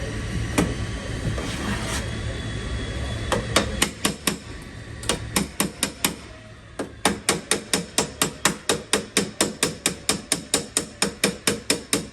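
A body-repair flipper (slapper) slapping a steel car quarter panel over a dolly held behind it, drawing out the low spots. It starts with a few scattered strikes, then after a short pause runs as a fast, even string of slaps, about four to five a second. A steady background hum fills the first few seconds.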